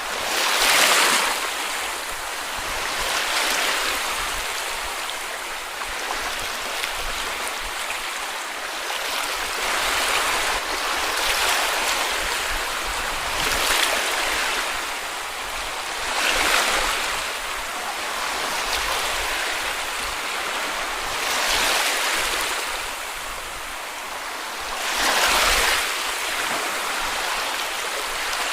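Small sea waves breaking and washing onto a beach, a steady wash that swells with each wave every two to three seconds.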